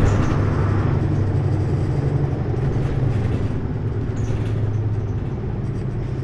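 Hino U-HT2MLAA city bus running along, heard from inside the cabin: a steady low engine drone with road noise, easing off slowly, with a brief knock right at the start. The uploader notes this bus's running sound tends toward abnormal noises, close to the state of a sister bus near the end of its service life.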